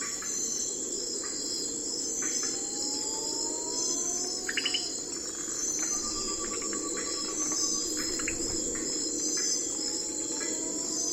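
Night forest ambience: crickets and other insects chirping steadily and high-pitched, with a few short trills and slow rising calls from birds or other night animals over a low steady hiss.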